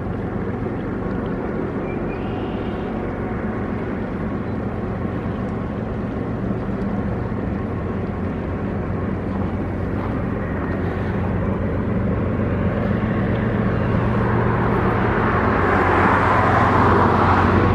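BNSF GE diesel locomotives pulling an empty unit grain train around a curve: a steady low engine drone that grows gradually louder as the train approaches, with a hiss of wheel and rail noise building over the last few seconds.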